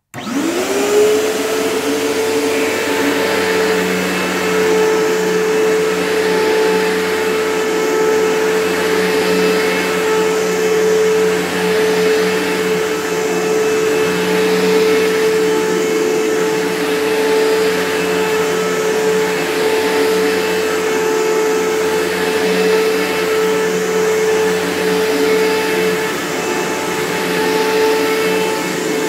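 Panasonic Power Wave MC-V7305 upright vacuum switched on: the motor spins up with a quick rising whine in the first second, then runs steadily.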